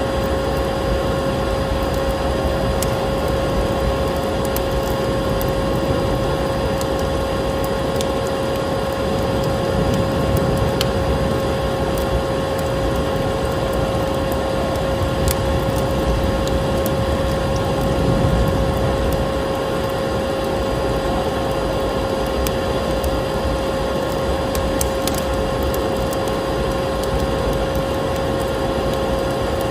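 Electric vacuum cleaner running steadily with a constant whine, over a crackling wood fire that gives scattered small pops.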